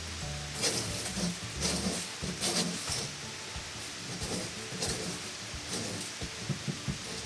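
Irregular scraping and rubbing strokes with a few short knocks, typical of hand work stripping or breaking up an old wall.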